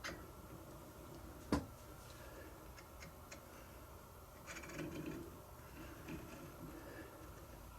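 Quiet handling of tools and the workpiece: one sharp click about a second and a half in, then a few faint ticks and soft rubbing sounds. No machine is running.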